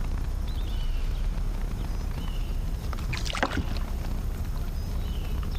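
Outdoor ambience on the water: a steady low rumble, with small birds chirping briefly now and then. About three seconds in, a short noisy burst of splashing or handling.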